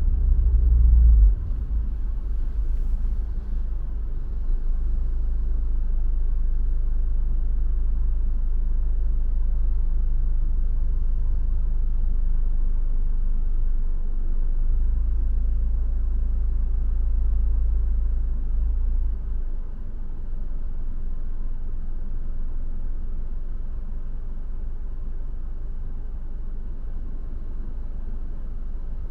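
Car driving: a steady low rumble of road and engine noise. It is loudest in the first second or so, swells again for a few seconds midway, then eases off a little.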